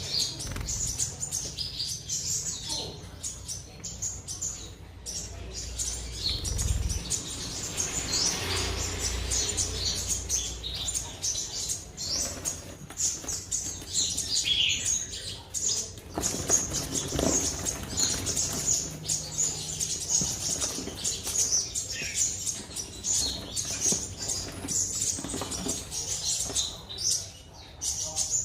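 Black-throated sunbird singing its full song: a long, continuous run of rapid, high-pitched twitters and chips.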